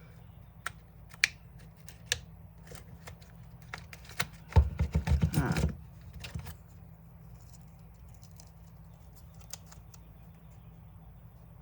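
Hard plastic parts of a cordless drill being handled and pushed together: scattered sharp clicks, then a quick run of knocks and rattles about halfway through.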